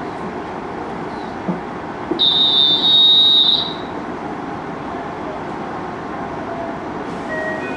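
Steady hum of a JR Hokkaido 733-series electric train standing at a station platform, heard from inside the car. About two seconds in, a loud, high-pitched electronic warning tone sounds for about a second and a half.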